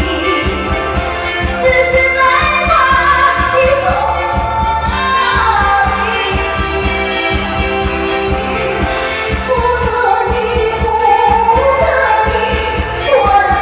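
A woman singing a slow Chinese pop song over a band backing with a steady bass beat.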